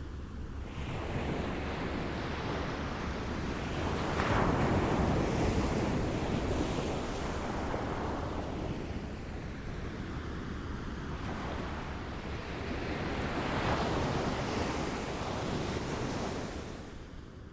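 Small waves lapping on a shore: a continuous wash of water that swells into two larger waves, about four seconds in and again about thirteen seconds in.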